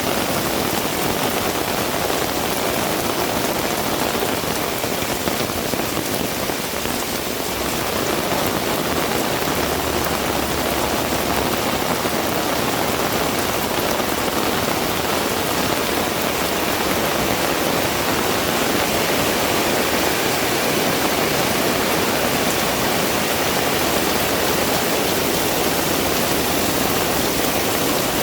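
Heavy rain falling steadily, a dense even hiss of drops hitting the ground and nearby surfaces.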